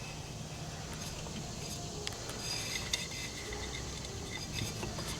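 A few small clicks and taps, the sharpest about two and three seconds in, over a low steady hum.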